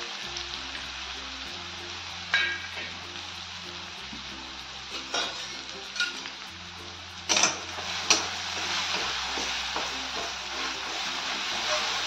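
Chilli-garlic paste frying in hot oil in a kadhai: a steady sizzle broken by a few sharp pops, with a spatula starting to stir the paste near the end.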